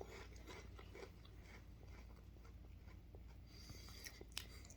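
Near silence: quiet room tone with a few faint clicks, one a little clearer near the end.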